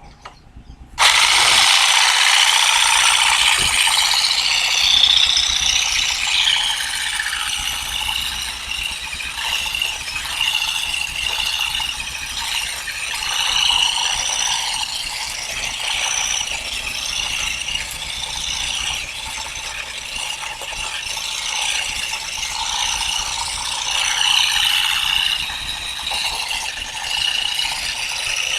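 Olive harvesting tool with plastic and nylon tines rattling and clattering through the branches. It starts suddenly about a second in and keeps up a continuous, loud, uneven mechanical clatter.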